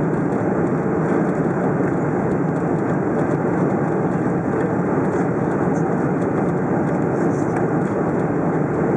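Steady rumble and rush inside the cabin of a Boeing 747-400 airliner: engine and airflow noise heard from a passenger seat, even throughout.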